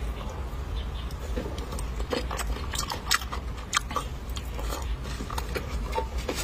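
Close-miked chewing and eating mouth sounds: irregular wet clicks and smacks as food is bitten and chewed.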